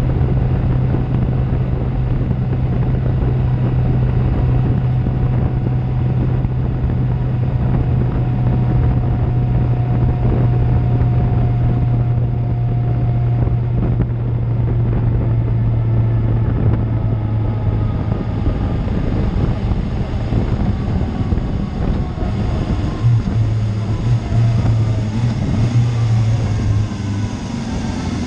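Suzuki GSX-R750 inline-four engine through an Akrapovic exhaust, running at a steady cruising drone under heavy wind noise on the microphone. From about two-thirds of the way in the engine note starts rising and falling as the throttle changes.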